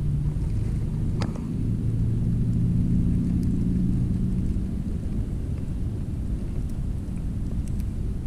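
A boat motor droning low and steady, fading away about five seconds in, over a low rumble of wind on the microphone.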